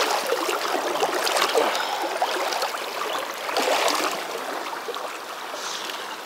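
Fast river current rushing and gurgling, with louder splashy swells coming and going.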